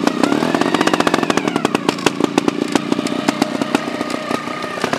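Trials motorcycle engine revving up over the first second or so, then running at a steadier speed with sharp, popping firing pulses.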